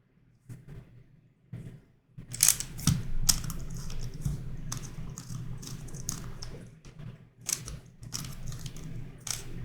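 Plastic twisty puzzle (YuXin Corner Helicopter 2x2) being turned by hand: a few separate clicks at first, then a fast run of clicking and clacking from about two seconds in.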